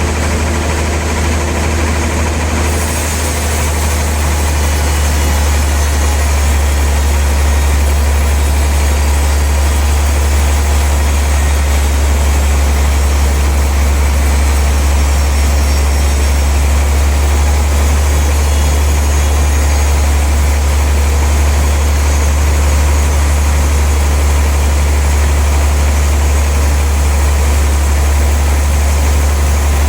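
Large sawmill saw machinery running with a steady low hum, growing a little louder about three seconds in.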